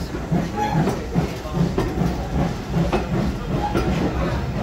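Passenger coaches of a heritage train rolling past on the rails, their wheels knocking over the rail joints in an even rhythm of about two beats a second over a steady rumble.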